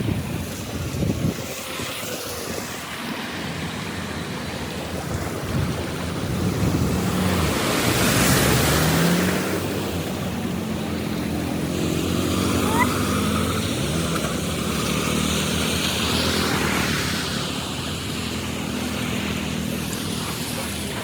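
Steady rush of water pouring through a cleared drain or culvert, growing louder in a swell partway through, with a low steady hum underneath.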